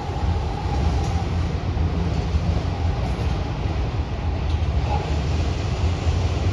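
Empty autorack freight cars rolling past: a steady low rumble of steel wheels on the rails.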